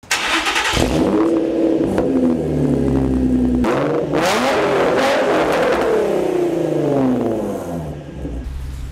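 Infiniti G35's 3.5-litre V6 revving hard, its pitch climbing for about three and a half seconds, then breaking off sharply with a burst of noise and falling away slowly over the next few seconds.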